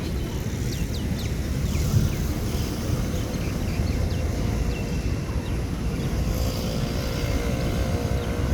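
Steady low outdoor rumble with short, high, falling chirps from small birds scattered through it; from about six seconds in a wavering mechanical drone joins.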